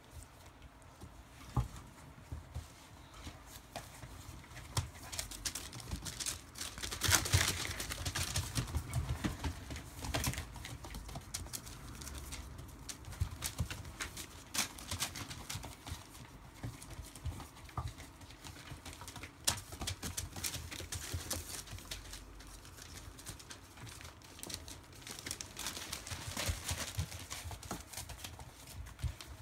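Rough collie puppies moving about, their paws pattering and scuffling in irregular runs of small clicks and taps, louder in a couple of busier bursts.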